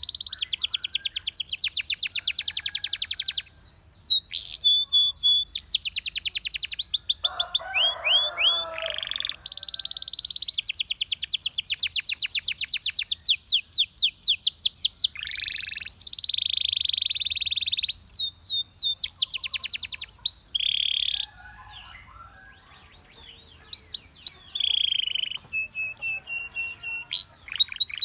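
Canary singing: long runs of rapid trilled notes and rolls, with short breaks between phrases, a lower, harsher chattering phrase about a third of the way in, and a brief lull about three-quarters of the way through.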